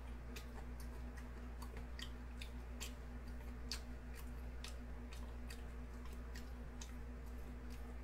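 Close chewing of raw gizzard shad sashimi, small bones and firm flesh giving irregular sharp crunching clicks, over a steady low electrical hum.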